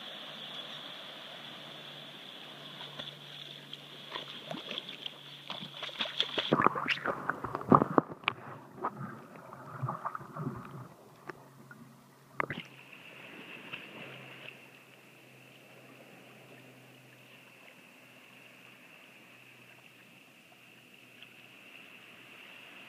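Water splashing and sloshing around a swimming dog, with a run of irregular splashes in the middle that is the loudest part. A steady high-pitched whine runs underneath and drops a little in pitch about halfway through.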